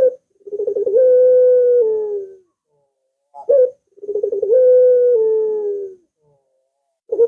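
Puter (Barbary dove) cooing: two long calls, each a short note followed by a quick rolling stutter that runs into a long held coo, dropping slightly in pitch near its end.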